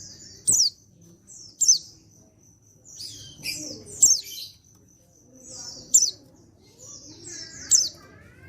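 Male white-eye (pleci) calling: about five loud, sharp high notes that each drop quickly in pitch, one to two seconds apart, with softer twittering between them.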